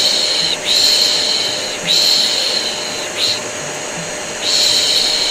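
Rhythmic 'shh' shushing, each hiss about a second long with brief breaks between, over the steady running drone of a vacuum cleaner. Together they make soothing white noise for a colicky baby.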